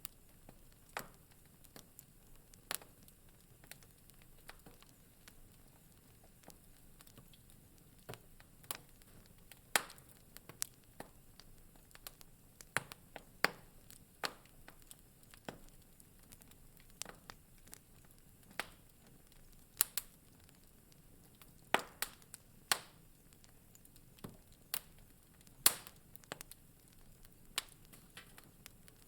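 Wood fire in a fireplace crackling: irregular sharp pops and snaps, some much louder than others, over a faint steady hiss.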